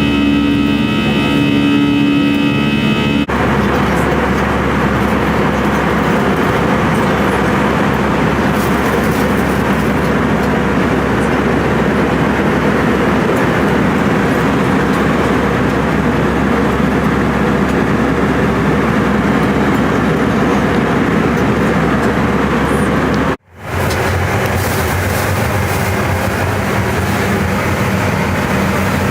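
Airbus A320 jet engine and airflow noise heard inside the cabin: a loud, steady rush, with a whining tone over it for the first three seconds before an abrupt change, and a brief dropout about three-quarters of the way through.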